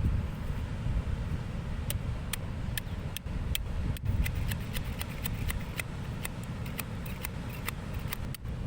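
Wood fire crackling, with irregular sharp pops several times a second over a steady low rumble.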